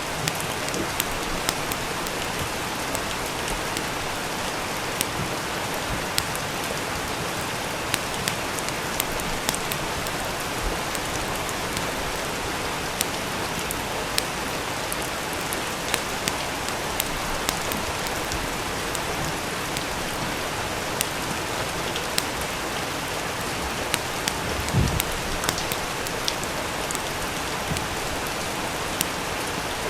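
Steady rain falling, with scattered sharp crackles and pops from a wood fire in a fireplace. About 25 seconds in there is a single low thump.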